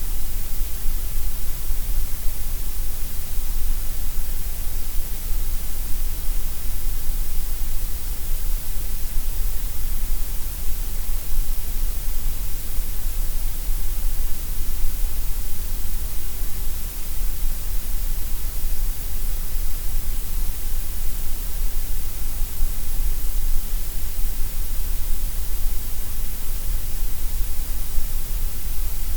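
Steady synthetic grey noise: an even, unchanging hiss, heavier in the deep bass and the treble than in the middle.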